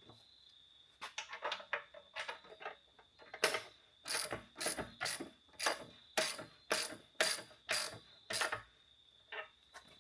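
Ratchet wrench running a 7/8 nut down a suspension pivot bolt: a patter of light clicks, then about ten regular ratcheting strokes, roughly two a second.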